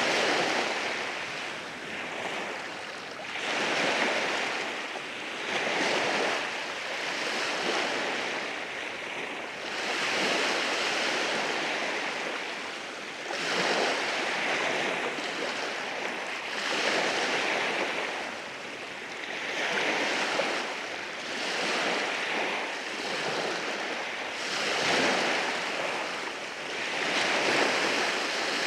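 Sea waves washing in over rocks on a beach, a steady hiss of surf that swells and ebbs every few seconds.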